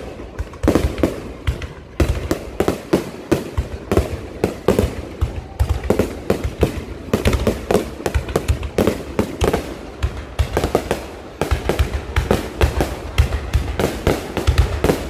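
Low-altitude fireworks going off in a rapid, continuous barrage: many sharp bangs and crackles a second.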